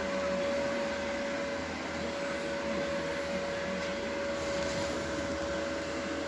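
A motor running steadily, with a constant whine over an even noise.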